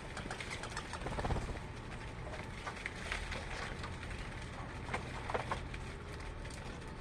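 Birds chirping and calling in short scattered notes, over a steady low hum, with a louder burst about a second in.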